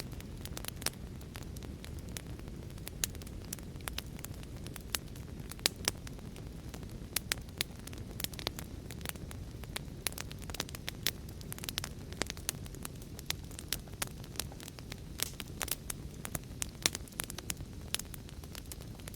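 Wood fire crackling: a steady low rumble of burning with many sharp, irregular pops and snaps, several a second.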